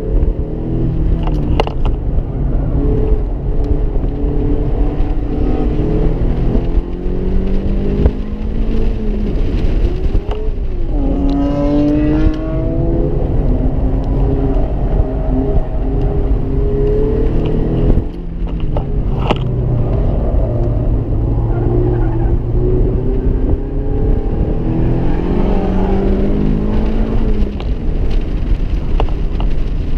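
Mazda MX-5 (ND) 1.5-litre four-cylinder engine heard from the cockpit while lapping a circuit, its revs climbing and dropping with throttle and gear changes, over a steady rush of wind and road noise. A sharp climb in revs about ten seconds in ends in a sudden drop, with another drop near the middle.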